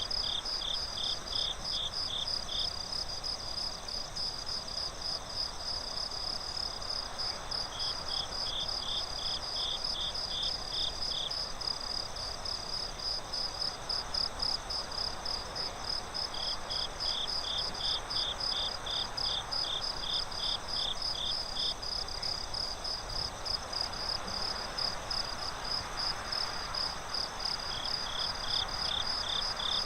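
Crickets chirping in a steady, fast pulsing trill, joined four times by a second, lower-pitched cricket chirping for a few seconds at a time, over a soft, even background hiss of a night-time forest ambience.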